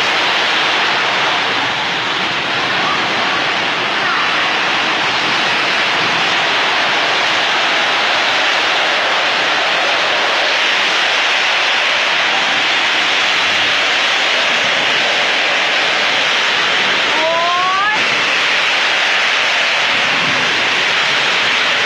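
Heavy storm rain and wind in a loud, steady rush. About seventeen seconds in there is a brief rising pitched sound.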